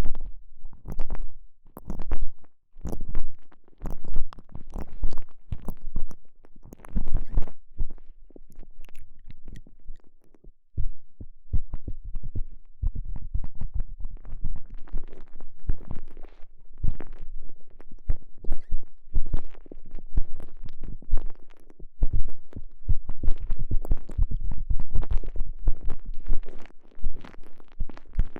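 A stretchy TENGA Egg sleeve squeezed and worked around a microphone inside it: irregular close-up squishing and rubbing with soft clicks and low thumps, quieter for a few seconds in the middle.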